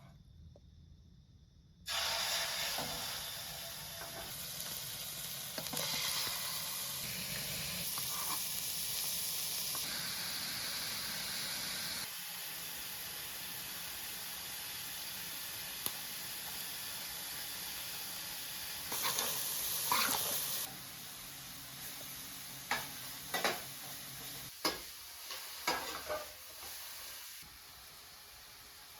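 Food going into hot oil in a pan, with a sudden loud sizzle about two seconds in that keeps frying steadily and slowly eases off. A few short knocks are heard near the end, as the food is stirred.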